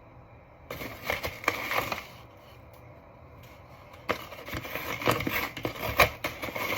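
Granulated sugar being poured from its bag into the weighing bowl, the bag crinkling and rustling, in two spells with a short pause between.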